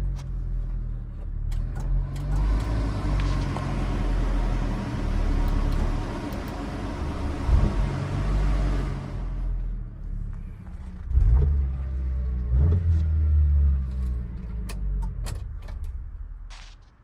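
Subaru Sambar kei truck's 660cc four-cylinder engine running, revved up briefly several times. For several seconds in the middle a steady hiss runs over the engine, and a few clicks come near the end.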